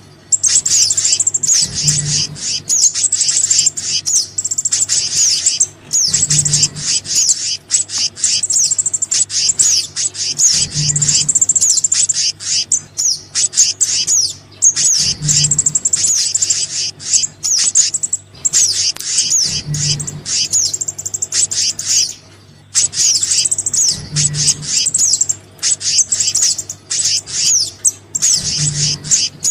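Bird-lure recording of small songbird calls, sogon mixed with black-naped monarch (kehicap) calls: fast, high chirps and whistled notes repeating almost without pause, with brief breaks. A low thump recurs about every four and a half seconds.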